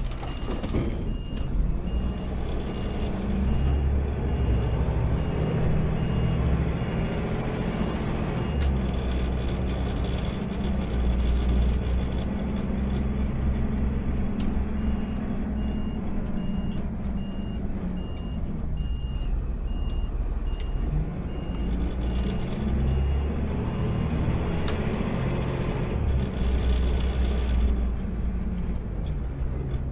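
Automated sideload garbage truck's engine running, its pitch rising and falling as it works, with a rapid high-pitched beeping in two long stretches and a few sharp clicks.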